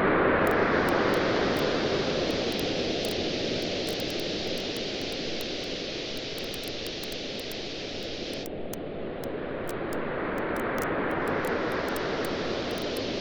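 Surf washing on a beach: a wave surge loudest at the start, ebbing away over several seconds, then swelling again near the end. Faint, frequent crackles of a wood bonfire run over it.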